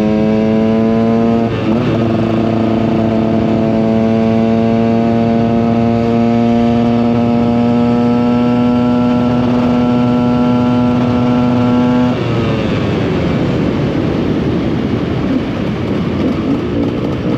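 KTM EXC 125 single-cylinder two-stroke motorcycle engine pulling under throttle with a high, slowly rising note. The note breaks briefly about a second and a half in, as at a gear change, then climbs steadily. About twelve seconds in the throttle closes and the note falls away, rough and uneven.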